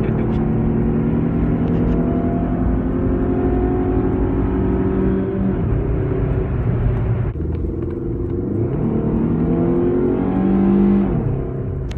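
Chrysler PT Cruiser's four-cylinder engine running through a loud exhaust, holding a steady note, briefly easing off about seven seconds in, then climbing in pitch as it accelerates and falling sharply near the end.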